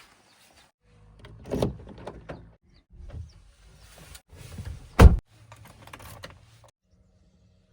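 Heavy machinery running in short, abrupt spells, with two loud knocks about one and a half and five seconds in, the second the loudest.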